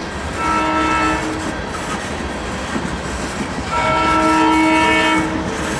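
Tank cars of a freight train rolling past with a steady rumble and wheels clacking over the rail joints, while a multi-tone train horn sounds twice, a short blast about half a second in and a longer one about two seconds later.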